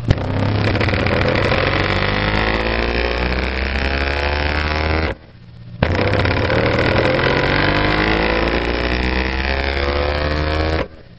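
Pyle Super Pro subwoofer in a ported enclosure playing a loud, steady deep bass tone with harsh overtones, driven hard for maximum excursion. It cuts out about five seconds in, starts again under a second later, and stops near the end.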